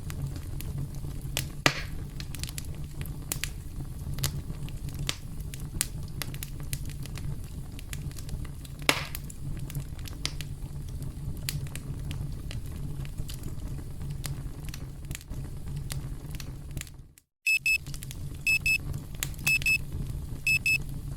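Campfire crackling steadily with occasional sharp pops. Near the end the fire sound briefly cuts out, then a high electronic alarm beeps in quick pairs over the crackle: the countdown timer going off at zero.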